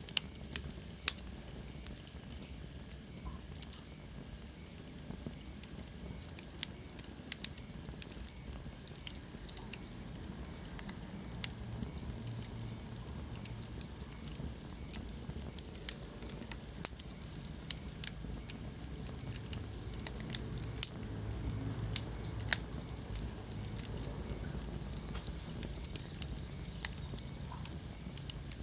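Wood fire burning in a fireplace: scattered sharp crackles and pops over a steady low rumble of the flames. A thin high whistle falls slowly in pitch during the first few seconds.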